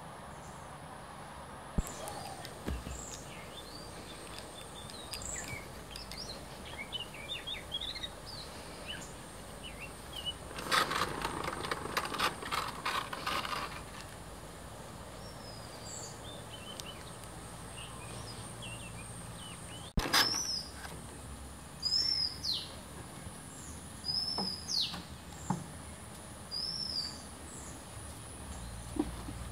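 Wild birds calling in a tropical garden: scattered short high chirps, then one bird gives a loud downward-arching call four times, spaced a second or two apart, in the last third. Midway there are a few seconds of dense scratchy noise.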